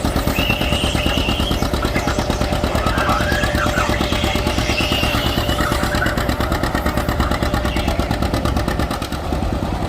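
Tractor engine running hard under load during a sled pull, a fast, even beat of exhaust pulses, easing off slightly near the end.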